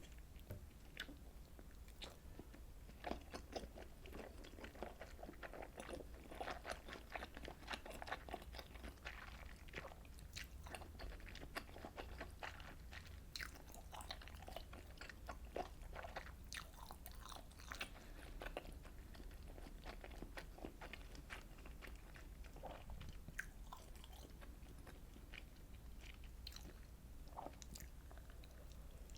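A person chewing and biting into fish cake and rice cake from a fish cake soup: a steady run of small mouth clicks and smacks, busiest in the first two thirds.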